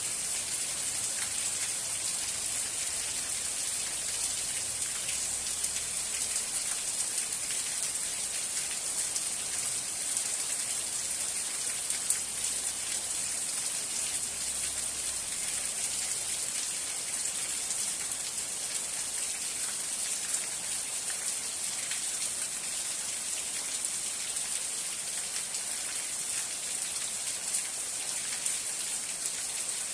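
Steady rain falling: an even, high hiss with scattered drop ticks and one sharper tick about twelve seconds in.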